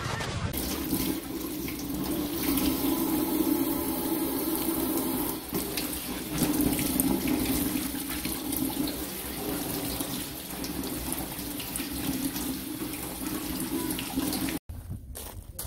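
Water running steadily from a tap into a sink. It cuts off abruptly about a second before the end.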